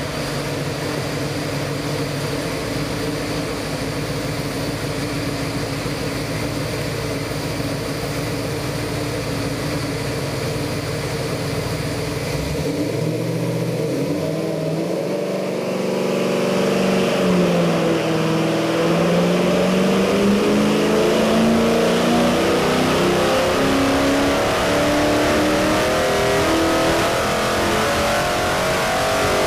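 Ford 351 Windsor V8 crate engine with MSD Atomic EFI running on an engine dyno. It idles steadily for about twelve seconds, is then brought up and briefly settles, and from about halfway on rises steadily and louder in pitch through a loaded sweep pull to about 5,000 rpm near the end.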